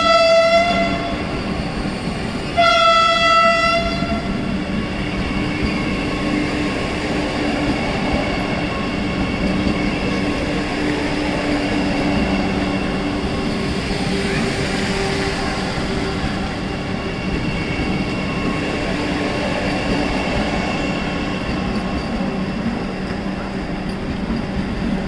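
A Vande Bharat Express electric multiple unit sounds its horn in two blasts, the first ending just after the start and the second, about a second and a half long, beginning about two and a half seconds in. The train then rolls slowly past with a steady low hum and the noise of its wheels on the rails, while rain falls.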